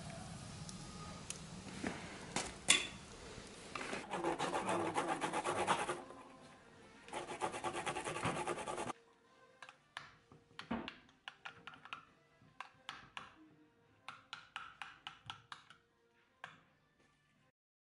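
Kitchen utensils at work: scraping and rubbing against dishes and pans, then a run of light, irregular clicks and taps from about halfway through.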